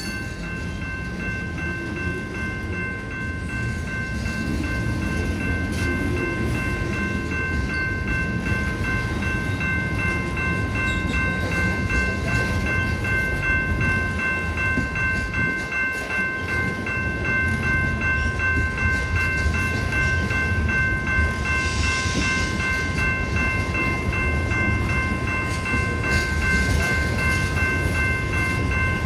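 A train rolling past, its cars and wheels making a steady low rumble, while a grade-crossing bell keeps ringing over it at a high, even pitch.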